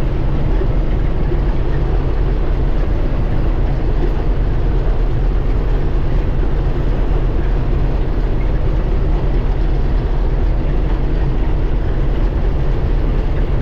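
Combine harvester running steadily while harvesting wheat: a constant, loud engine and machinery drone with a low hum.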